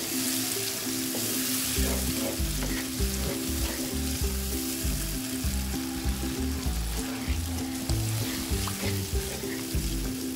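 Tomato, spice and yogurt masala sizzling in oil in a frying pan while a wooden spatula stirs it. Background music with a low, stepping bass line plays underneath.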